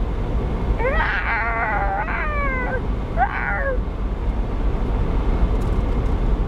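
Samoyed puppy whining: a long, wavering whine about a second in, then a short falling one just after three seconds. A steady low rumble of the moving car runs underneath.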